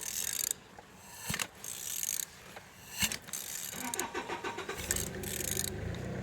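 Removed engine being turned over at the crankshaft: three short hisses in the first half, then from about five seconds a steady low whirring as it rotates. It turns freely, a sign that the engine is not seized.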